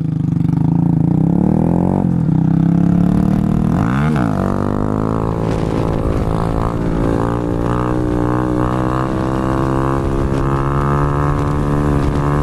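Small motorcycle engine running under way, heard from on the bike. Its pitch dips about two seconds in and sweeps around four seconds in as the throttle or gear changes, then it holds a steady drone.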